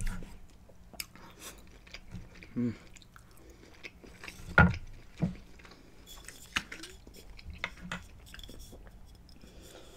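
Close-miked chewing of a mouthful of steak, with scattered clicks of a knife and fork cutting meat on a wooden board. A sharp click about halfway through is the loudest sound.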